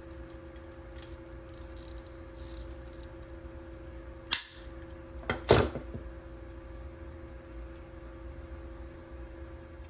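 Hard objects being handled: one sharp click about four seconds in, then a louder double knock a second later, over a steady electrical hum and faint ticking.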